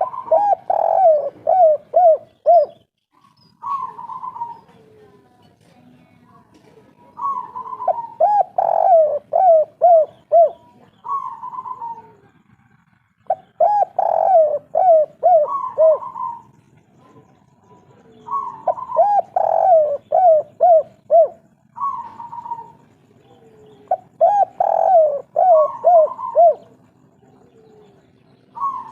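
Spotted dove (tekukur) cooing its 'kuk 3' song over and over. Each phrase opens with a higher coo followed by a quick run of about five lower coos, and a new phrase comes every five to six seconds.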